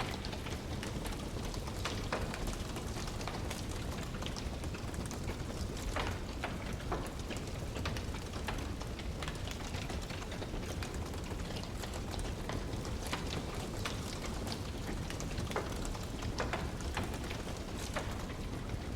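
Wood fire burning in a fireplace: irregular sharp crackles and pops over a steady low rushing noise.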